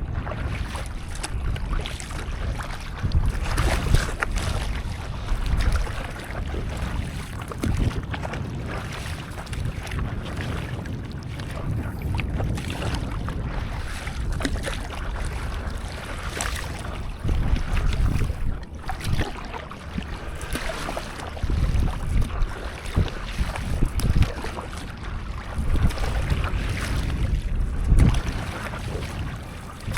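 Sea water splashing and lapping around a stand-up paddleboard, with wind buffeting the microphone in irregular low gusts.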